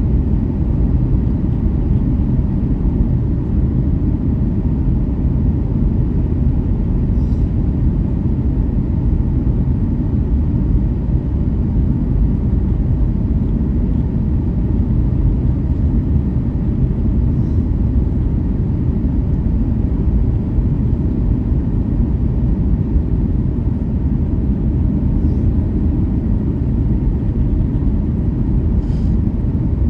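Steady low rumble of an airliner cabin, engines and airflow droning evenly, with a few faint ticks.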